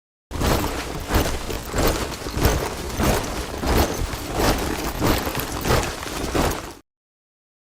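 A body of soldiers marching in step, boots striking the ground together about twice a second. It starts just after a moment of silence and cuts off suddenly about a second before the end.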